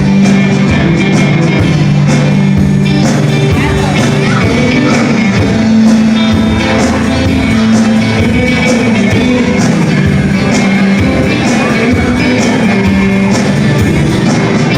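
A band playing an instrumental passage of a song: guitar and held low notes over a steady drum beat.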